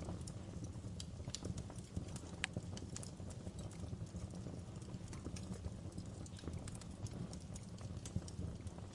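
Wood fire crackling in a fireplace: frequent small snaps and pops over a low steady rumble. Two louder snaps stand out, about two and a half seconds in and near the end.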